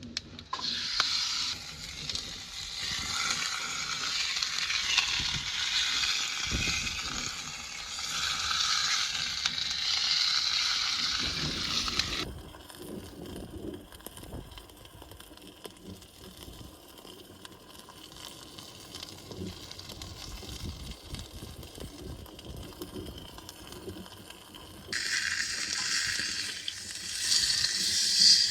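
Steak sizzling in a hot pan over a campfire, a dense frying hiss. It is loud for about the first twelve seconds, drops away sharply to a faint sizzle, and comes back loud again near the end.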